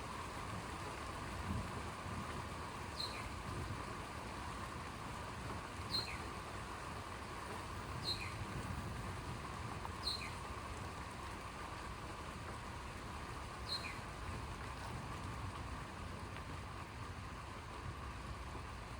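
Steady rain falling during a thunderstorm, with a short high chirp that drops in pitch repeating about every two to four seconds, five times in all.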